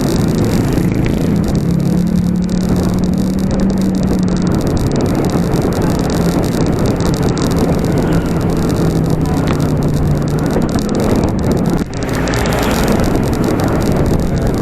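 Steady road and traffic noise with a motor vehicle's engine humming close by, over a rush of wind on the microphone.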